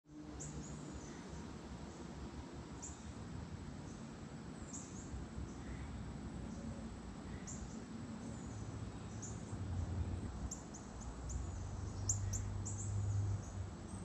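Small songbirds giving short, high chirps every couple of seconds, coming faster after about ten seconds, over a low steady rumble of outdoor background noise.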